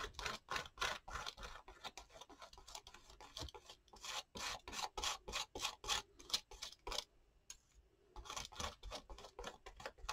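Rapid scraping and rubbing strokes of a tool working medium across a paper journal page, several strokes a second, pausing briefly about three quarters of the way through before resuming.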